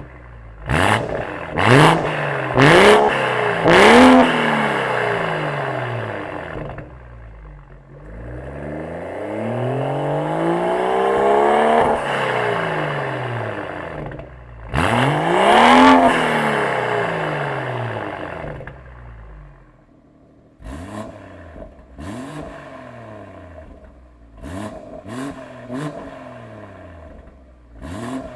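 BMW G30 540i's 3.0-litre turbocharged B58 inline-six revved through an aftermarket downpipe and a custom valved exhaust with sport resonator. It gives four quick blips with sharp cracks, then two longer revs that rise and fall slowly, then a run of short, lighter blips near the end.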